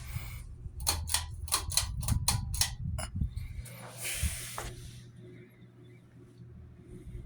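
A Litex Close Up ceiling fan's motor hums steadily. About a second in comes a quick run of roughly nine sharp clicks lasting a couple of seconds, then a short rustling hiss.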